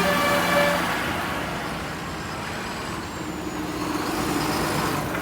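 Tractor engines running as tractors pass by, with a vehicle horn tooting during the first second.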